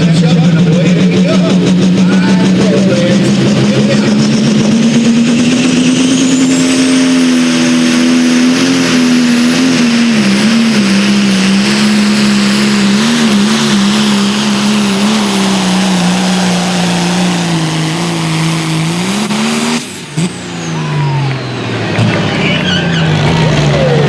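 Pro Stock pulling tractor's turbocharged diesel engine at full throttle under load, its pitch climbing over the first few seconds, then holding and wavering as it pulls the sled. Near the end the engine note drops suddenly as the throttle comes off, and the engine keeps running at a lower speed.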